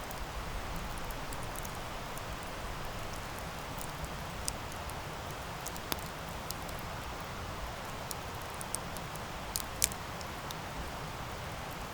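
Wood campfire burning: a steady hiss and low rumble of the flames with scattered sharp crackles and pops, two of the loudest close together near the end.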